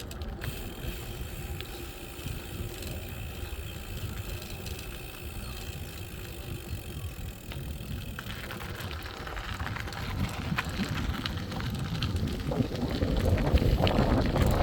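Riding a bicycle: wind rumble on the phone's microphone and tyre noise, getting louder and rougher from about eight seconds in, with scattered small ticks and rattles.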